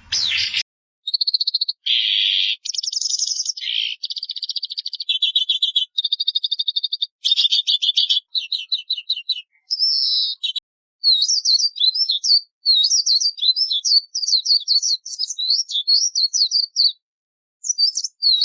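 Daurian redstart calling and singing: a run of short, varied chirps and buzzy trills, then from about eleven seconds in a fast, high warbling song of quickly repeated notes.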